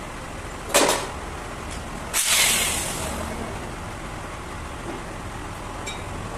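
A sharp knock just under a second in, then a short burst of hissing about two seconds in that fades away, over a steady background hum.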